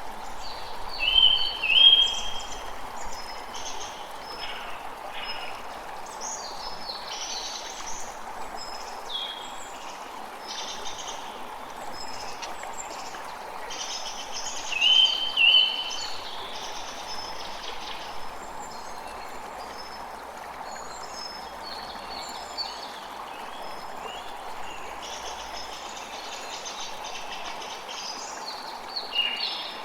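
A creek flowing steadily, with forest birds calling over it throughout; the loudest are short rising chirps about a second in and again about halfway through.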